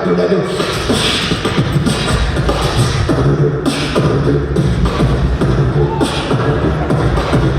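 Solo beatboxing in a bass-driven groove: deep hummed bass tones under vocal kick and snare hits, with a hissing snare-like burst roughly once a second.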